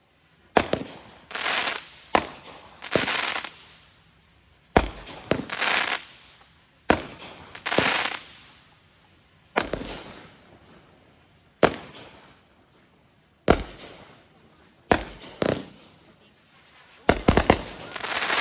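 Consumer aerial fireworks going off in a run of about a dozen sharp bangs, one every second or two. Several bangs are followed by about a second of hissing crackle.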